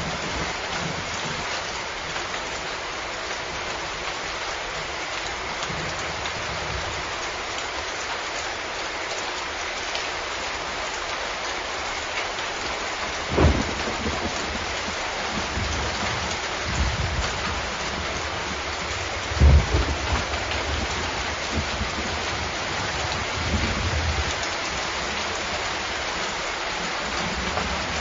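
Steady rain falling, with a few short low rumbles of thunder, the loudest about two-thirds of the way through.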